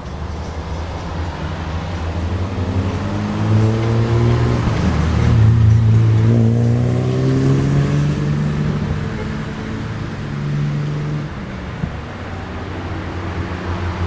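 A motor vehicle's engine revving, its pitch gliding up and down as it swells to loudest about six seconds in and then fades, over a steady low hum.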